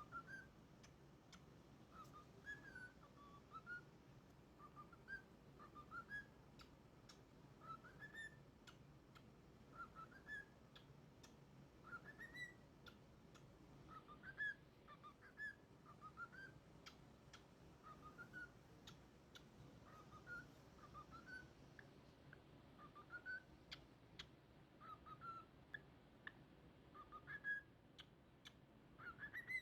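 Cockatiel whistling quietly: short, mostly rising whistled notes in little groups of two or three, repeated every second or so, with faint clicks between them.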